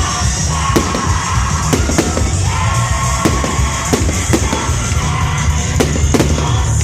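Fireworks going off in a string of sharp bangs, roughly one or two a second, over loud music from a fireworks show soundtrack.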